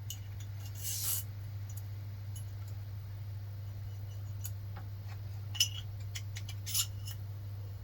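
A few light metallic clinks and clicks of small metal parts being handled, scattered over a steady low hum.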